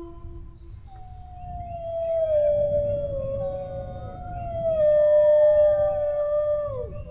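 Dogs howling: long drawn-out howls that slide slowly down in pitch, a second howl joining and overlapping the first, the last one dropping away near the end.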